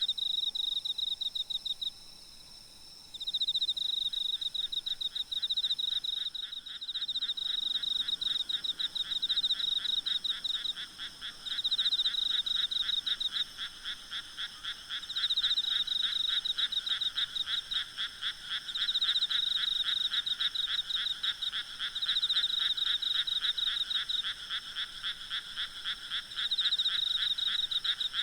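A night chorus of frogs calling in fast pulsed trills that come in overlapping bouts of a few seconds, with a short lull about two seconds in. Underneath runs a faint, steady, high insect drone.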